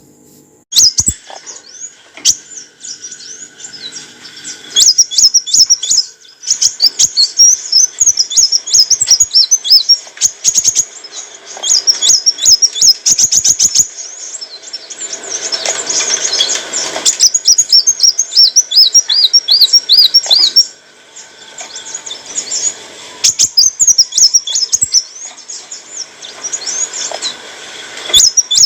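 Kolibri wulung sunbird singing a fast, high-pitched song of rapid chirps, trills and quick runs of ticks, with short pauses.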